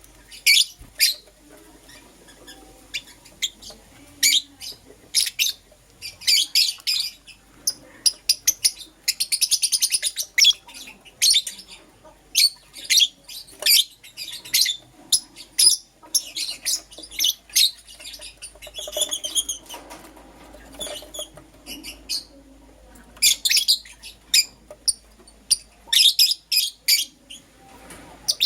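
Pet lovebirds chirping: rapid, high-pitched chirps and chatter in quick bursts, some running into fast trills.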